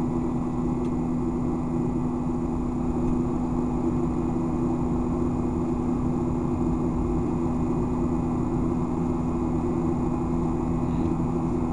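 Boeing 737-800's CFM56-7 turbofan engines heard from inside the cabin in the climb: a steady engine drone carrying the steady humming tones of the fan's buzzsaw noise over a rumbling roar.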